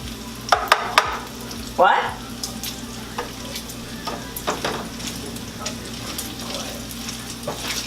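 Strips of bacon frying in a pan, a steady sizzle full of small crackling pops, with a few sharp clicks in the first second.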